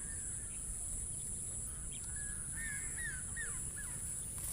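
Birds calling outdoors: a few short chirping notes come about two and a half to four seconds in, over a steady high-pitched background drone and low wind rumble.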